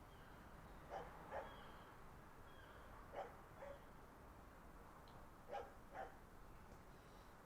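A distant dog barking, faint, in pairs of short barks about every two and a half seconds, over a low steady background hum.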